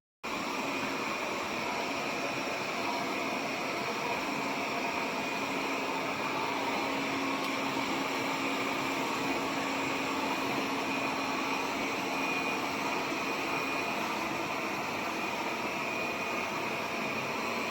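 Airzeen R7 robot vacuum running: a steady whir from its suction motor and brushes, with a thin high whine and a low hum over it. It starts abruptly at the very beginning.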